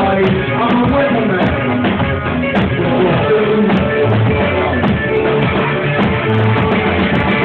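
Live rock band playing loudly: electric guitar and drum kit.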